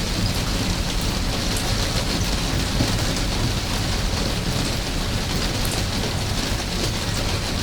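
Steady rain falling: a dense, even hiss with scattered sharper drops.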